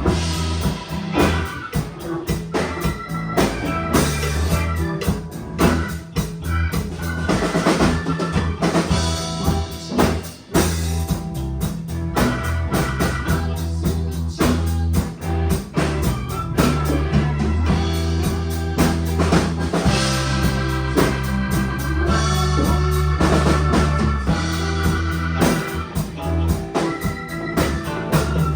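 A band playing a song with a drum kit and bass: a steady beat under a moving bass line.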